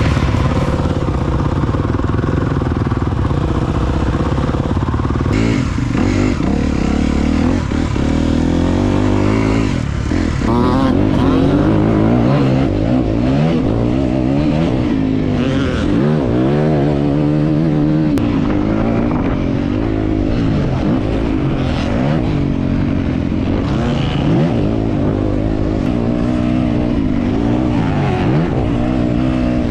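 Dirt bike engine being ridden hard, its pitch rising and falling again and again as the throttle is opened and shut and the gears change.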